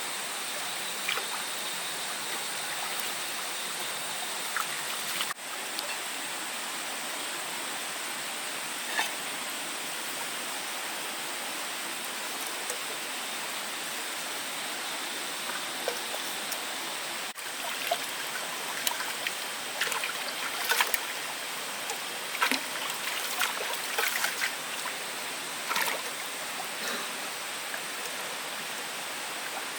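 Steady rushing noise like flowing water, with a thin high-pitched steady hum over it. A run of sharp clicks and crackles comes in the second half.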